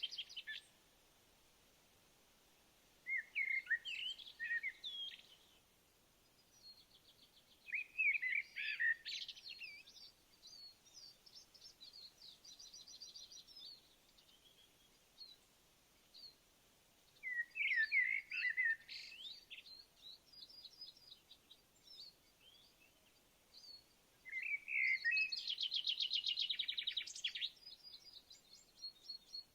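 Songbirds singing: short phrases of quick chirps and fast trills about every seven or eight seconds, with scattered softer chirps between them over a faint steady hiss.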